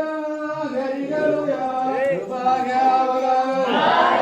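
A group of voices chanting together in long, steadily held notes, with louder, fuller group singing coming in near the end.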